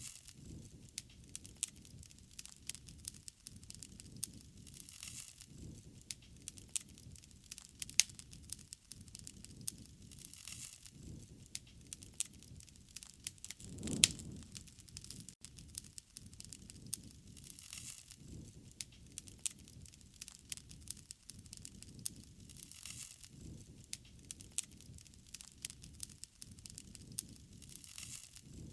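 Wood fire crackling steadily, with many small sharp pops over a low, soft rush of flame. A louder pop comes about eight seconds in and another near the middle.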